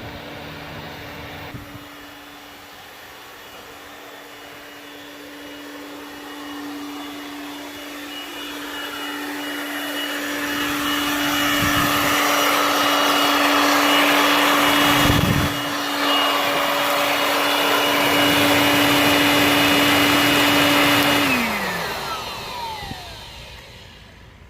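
A small high-speed electric motor running at a steady pitch, with a rushing noise building up in the middle, then switched off and winding down with falling pitch about 21 seconds in.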